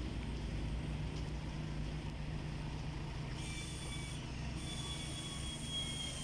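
Volkswagen 1.4 FSI (BLN) four-cylinder petrol engine idling steadily on test. About three and a half seconds in, a thin, high-pitched whine sets in and holds over the engine's hum.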